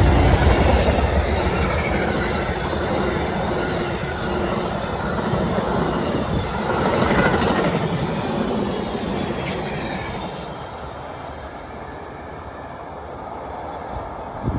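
Amtrak passenger train cars rolling past, with wheels clicking over rail joints and some squealing. The rolling fades after about ten seconds as the end of the train goes by.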